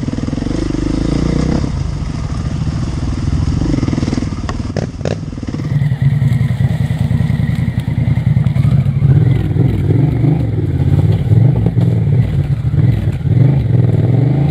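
Off-road motorcycle engine running and revving along a dirt trail, its pitch rising and falling with the throttle. A few sharp knocks come in the first five seconds. About six seconds in the sound changes abruptly and the engine becomes louder and busier.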